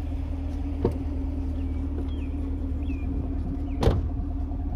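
Car engine idling steadily, with two sharp knocks: a light one about a second in and a louder one near the end.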